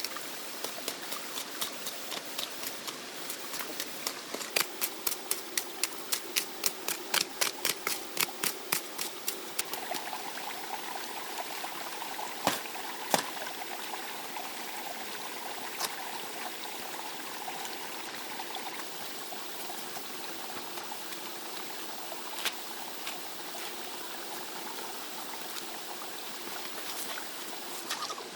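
Steady running water of a stream, with a quick run of sharp knocks, about three a second, through the first nine seconds or so, then a few single knocks.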